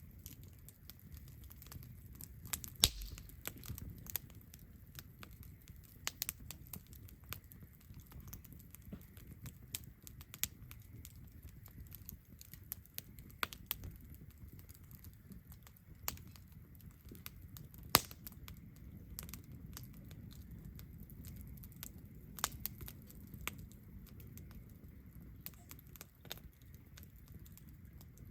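Wood campfire crackling, with irregular sharp pops over a low steady rumble; two pops stand out, about 3 and 18 seconds in.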